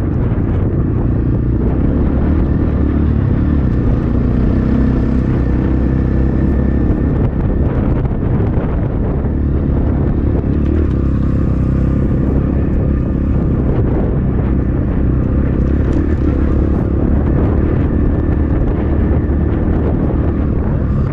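Templar X 250 dirt bike's engine running steadily as the bike rides along, with strong wind buffeting the microphone.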